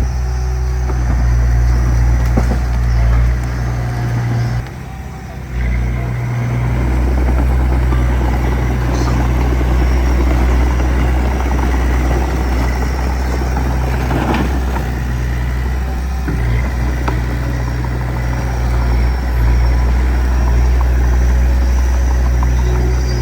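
Diesel engine of a small bulldozer or dump truck on a dirt site running steadily, with scattered metallic clanks. The engine sound dips briefly about five seconds in.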